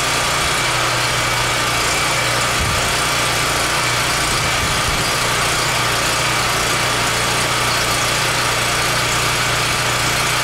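Portable generator's small engine running steadily just after a cold start, with a constant low hum and a hiss.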